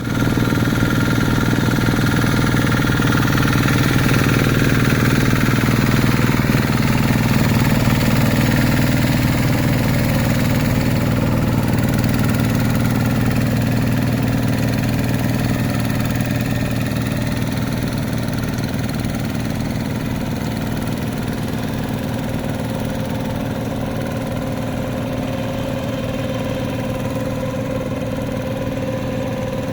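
Two-wheel hand tractor's engine running steadily, a little louder in the first several seconds before easing slightly.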